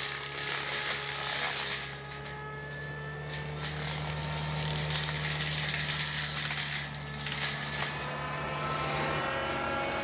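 A machine's engine running under load, its pitch rising slowly, with a steady low hum that stops near the end.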